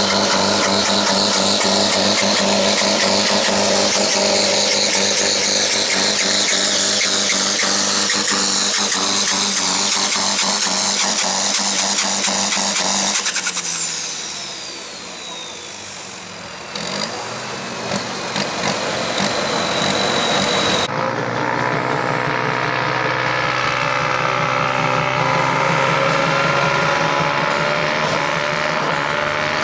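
Farm tractor's diesel engine pulling at full power, with a high turbocharger whistle over it. About 13 s in the power drops off and the whistle falls away in pitch as the engine winds down; from about 21 s an engine runs again, its pitch slowly rising.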